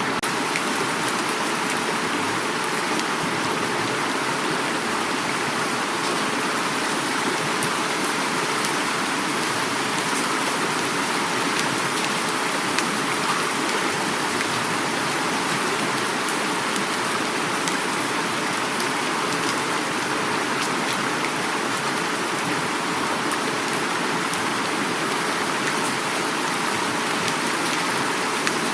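Heavy rain falling steadily, with many fine drop ticks, over the continuous rush of flowing river water.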